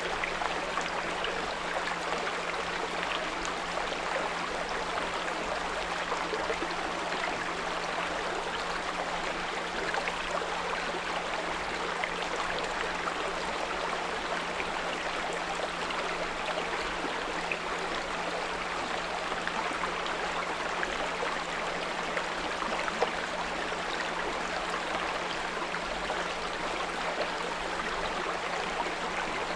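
Small brook flowing and trickling steadily, with a steady low 174 Hz pure tone held underneath it.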